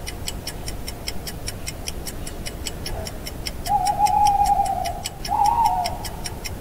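Owl hooting, with one long hoot about four seconds in and a shorter one just after, over the steady fast ticking of a countdown clock.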